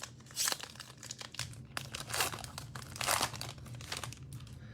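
Cellophane wrapper of a trading-card cello pack being torn open and crinkled by hand, in a run of irregular rustling bursts.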